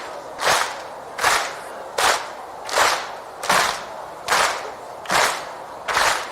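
A crowd clapping in unison to a slow, steady beat, about four claps every three seconds, each clap a slightly blurred crack of many hands together.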